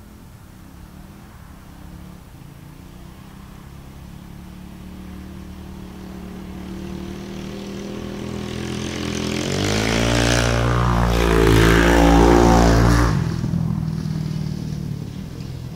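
A dirt bike's engine, growing steadily louder for about nine seconds, then revving hard with a rising pitch for about three seconds before dropping back.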